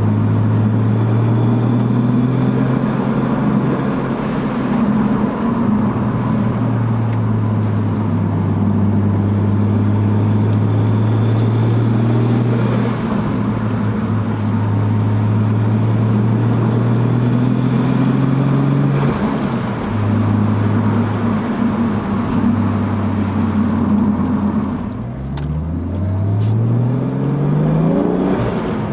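A Toyota Supra Mk3's 7M-GTE 3.0-litre turbocharged inline-six with a 3" HKS Silent Hi-Power catback exhaust, heard from on board, running at steady revs for most of the time. About 25 seconds in the revs drop, then the engine pulls up in a rising pitch under acceleration.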